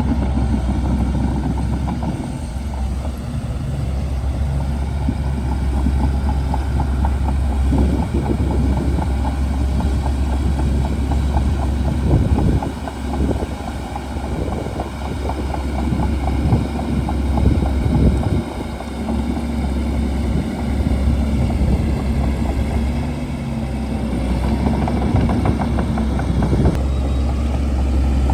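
Shantui DH17C2 bulldozer's diesel engine running under load, its low hum rising and falling as the machine works. Through the middle there is a run of clattering knocks.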